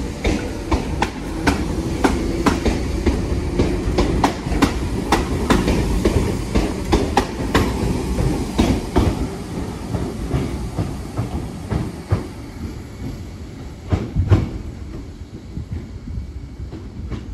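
Merseyrail Class 507 electric multiple unit departing, with a steady rumble and a run of sharp wheel clicks over the rail joints. The clicks thin out after about ten seconds and the sound fades away near the end.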